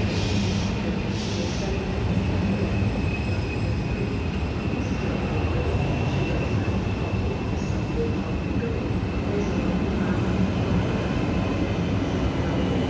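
Trenitalia regional train running into the station: a steady heavy rumble of wheels on rails, with a faint high wheel or brake squeal throughout. There are two short hisses in the first second and a half.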